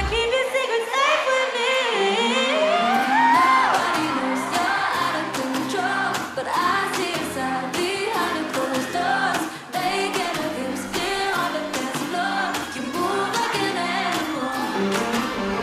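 Pop song performed live, with female voices singing melodic lines over the backing track. The low end drops out at the start and a bass line comes back in about two seconds in.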